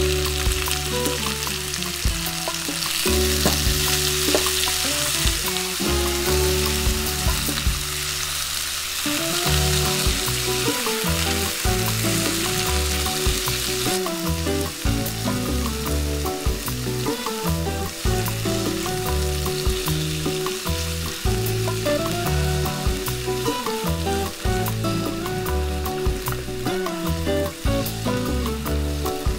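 Sliced cucumbers sizzling in garlic and olive oil in a hot nonstick frying pan, the hiss loudest in the first half and easing later, with some stirring. Background music plays underneath.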